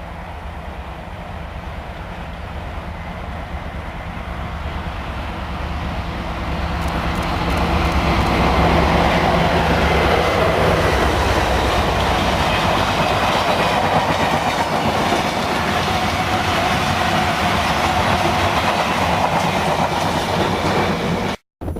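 Diesel freight locomotive approaching and passing with its engine running steadily, growing louder over the first several seconds. After that the wagons of the engineers' train roll past with a continuous clatter of wheels on the rails.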